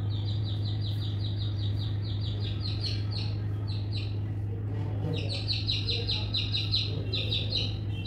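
A small bird chirping in a fast, steady series of high chirps, getting louder about five seconds in, over a steady low hum.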